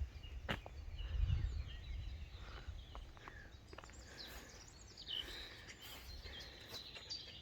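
Small birds chirping and calling, busier in the second half, over a low steady rumble.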